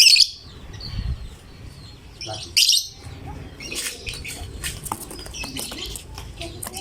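Lovebird calling: rapid, shrill, high chirps throughout, broken by loud harsh screeches at the start and again about two and a half seconds in.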